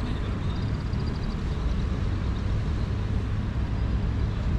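Steady low rumble of city street traffic, with a faint rapid high trill briefly about half a second in.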